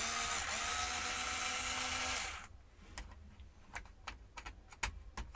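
Small handheld power tool motor running for about two and a half seconds, spinning up as it starts and then stopping, followed by a few light clicks.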